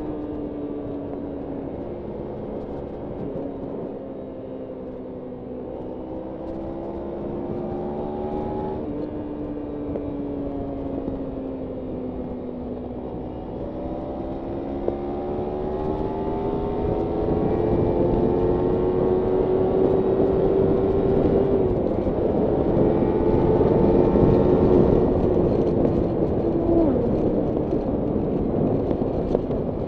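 Kawasaki Ninja 300's parallel-twin engine on a canyon ride, its pitch slowly rising and falling with the throttle and dropping suddenly a few times at gear changes, over a steady rush of wind noise.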